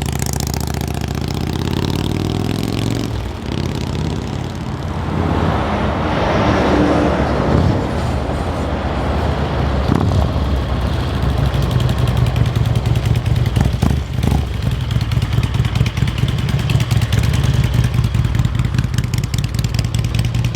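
Harley-Davidson Street Glide's V-twin engine running on a test ride, rising in pitch over the first few seconds, with a rush of noise swelling around the middle. The bike has a small exhaust leak at the front header.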